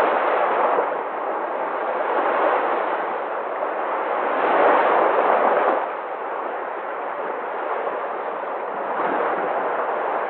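Sea waves washing onto the shore: a continuous rushing surf that swells and eases in slow surges, the strongest about halfway through.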